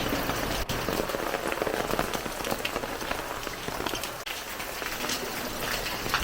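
Heavy rain falling on surfaces: a dense, steady patter of many drops.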